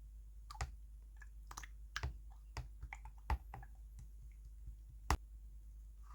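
Clear slime being pressed and poked by hand, giving irregular sharp clicks and pops, about a dozen, the loudest two a little past three seconds and about five seconds in.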